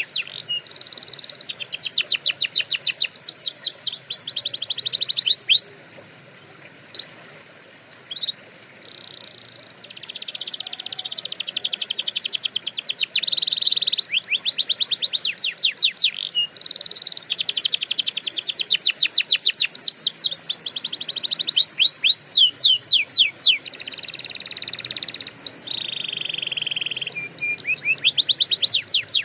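Domestic canary singing: fast trills of rapidly repeated notes and dense rolling phrases, high-pitched. About six seconds in the song breaks off for a few seconds, with only a couple of single chirps, then resumes and carries on.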